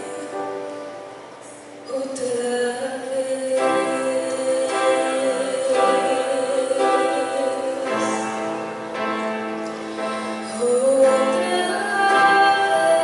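A woman singing a worship song over instrumental accompaniment, holding one long note with vibrato from about two seconds in.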